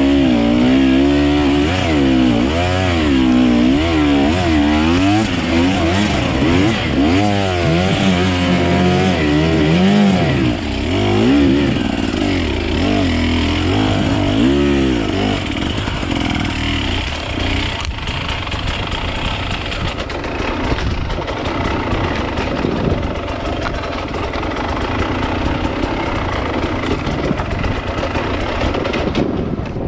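Off-road dirt bike engine revving up and down over and over, its pitch rising and falling about once a second, for roughly the first half; after that it runs on as a rougher, steadier noise without clear revs.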